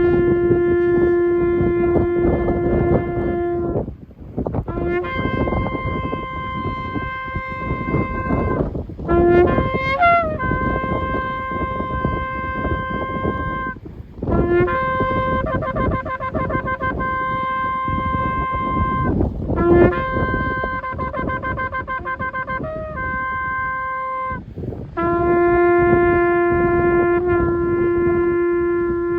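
A shofar blown in six long blasts of about four to five seconds each. The first and last hold a low note; the middle ones open with a brief low note that jumps up to a higher held note, and one of them wavers rapidly through most of its length. A steady low noise runs beneath.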